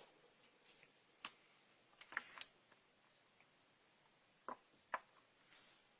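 Near silence broken by a few faint clicks and light taps, about five in all, as small craft supplies are set down on the work table.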